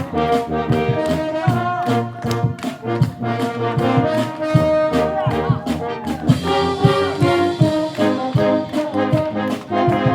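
Wind orchestra playing, with brass to the fore in held notes over a steady percussion beat.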